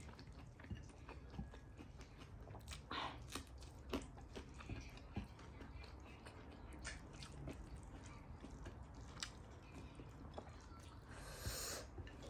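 A person chewing a mouthful of rice and curry, with soft, wet mouth clicks and smacks scattered throughout, and a short louder hiss near the end.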